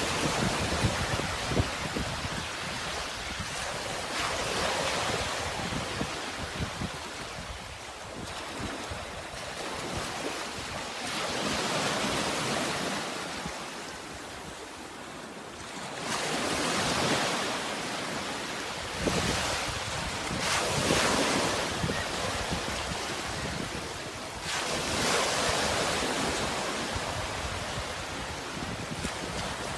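Sea waves breaking and washing in, swelling every few seconds, with wind rumbling on the microphone.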